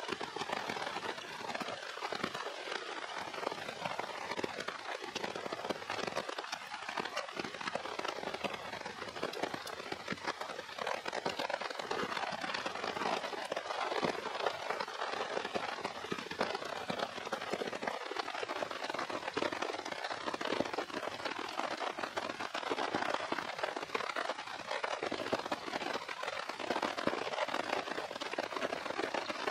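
Steady rain, a dense even patter.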